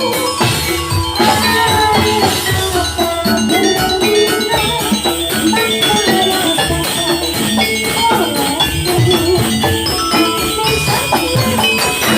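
Javanese gamelan music for a jathilan dance: bronze metallophones and gongs ringing many pitched notes over a fast, even drum-driven pulse, played loud and continuous.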